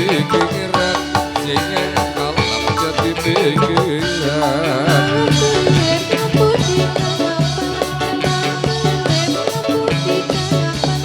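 Live Indonesian folk band playing an instrumental passage: hand drums keep a steady, busy beat under the melody, and a melodic line waves up and down in pitch a little before the middle.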